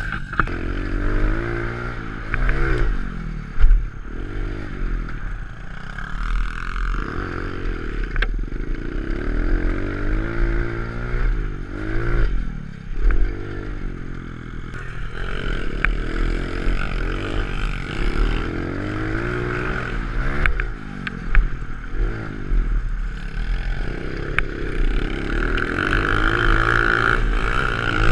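Pit bike engine revving up and falling back again and again as the bike is ridden hard, with scattered rattles and knocks and one loud thump about three and a half seconds in.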